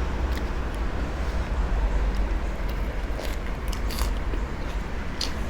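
A person chewing and biting into seafood papaya salad, with a handful of short crunchy clicks spread through, over a steady low rumble.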